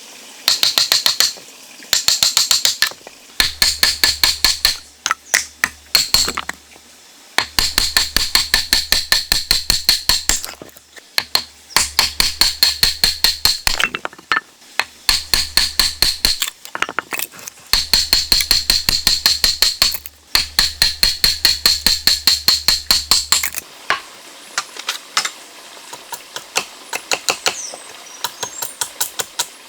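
Rapid, repeated sharp tapping strikes, several a second, in runs of a few seconds separated by short pauses, with a ringing note over each run.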